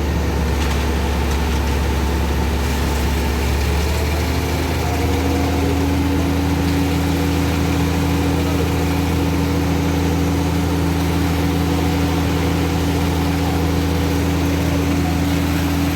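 Concrete mixer truck's diesel engine running steadily at idle, a low hum with steady tones over it; its pitch rises slightly about four seconds in.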